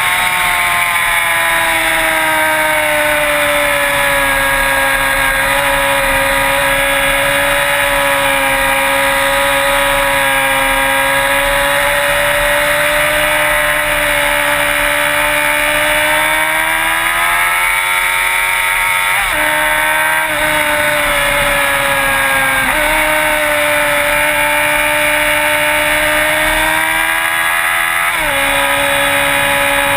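Sport-bike engine running under way, its pitch slowly rising and falling with the throttle. The engine note drops abruptly a few times, as at gear changes.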